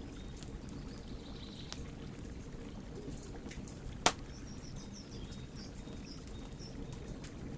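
Wood fire burning: a steady low rumble of flames with scattered sharp crackles, and one loud pop about four seconds in.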